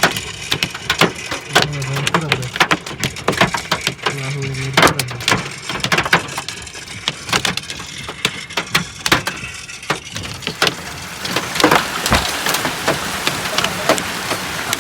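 Hailstones pelting hard surfaces: a dense, irregular clatter of sharp ticks and knocks over a steady hiss of falling rain.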